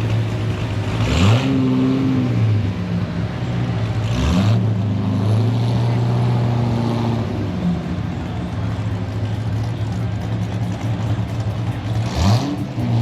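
A car engine idling and being revved three times: about a second in, around four seconds in (held up for a few seconds before settling), and again near the end.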